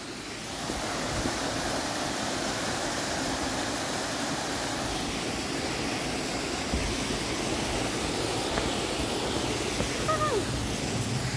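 Steady rushing of a nearby waterfall, a constant even roar of falling water. A short falling call cuts through it near the end.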